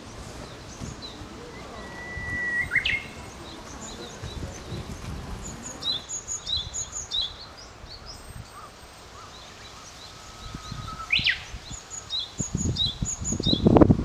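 A Japanese bush warbler (uguisu) sings twice, each time a long held whistle that ends in a quick upward flourish. Short high chirps of other small birds come between the two songs, and a low rustling noise rises near the end.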